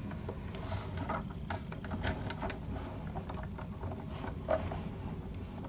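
Faint, scattered light clicks and rubbing of plastic Lego parts as the model truck is handled, over a low steady hum.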